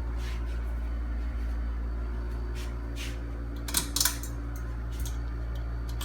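Steady low electrical hum with a few light, sharp metallic clicks, two close together near the middle, typical of a ceiling fan's pull chain being handled.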